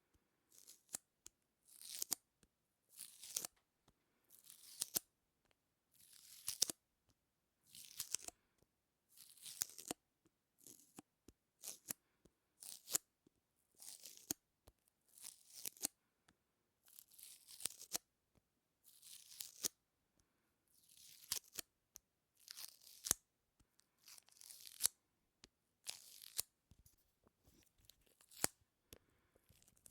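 Close-miked ASMR sticky sounds: a sticky surface pulled apart again and again, about once a second, each pull a short crackling rip with small clicks.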